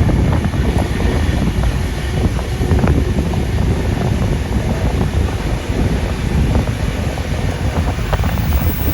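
Wind rushing over the microphone on board a moving steam-hauled passenger train, over a dense low rumble of the train running with scattered clicks.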